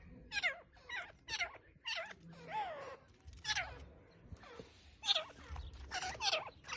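Grey francolin calling: a string of short, repeated notes, each sliding down in pitch, two or three a second in uneven groups.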